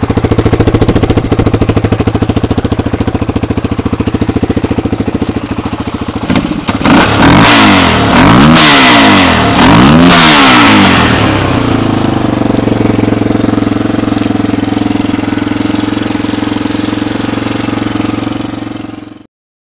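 1992 Honda XR250R's air-cooled single-cylinder four-stroke engine idling, then revved up and down about three times in quick succession, then settling back to a steady idle. The sound cuts off suddenly near the end.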